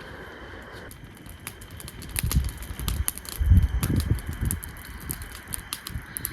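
Strong wind gusting against the microphone in a forest at night, with low rumbling buffets, while many small sharp ticks and crackles patter through it.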